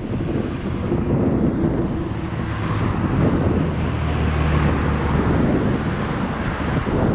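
Chase vehicle driving: steady road and engine noise mixed with wind rushing over the microphone, the low engine hum strongest around the middle.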